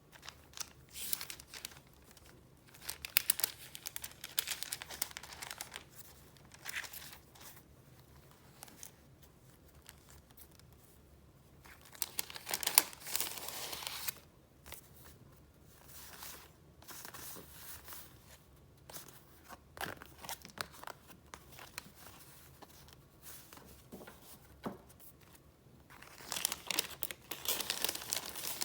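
Paper rustling and crinkling as sheets in a file of retro paper goods are handled and flipped through, in uneven bursts with quiet gaps between; the loudest handling comes about twelve seconds in and again near the end.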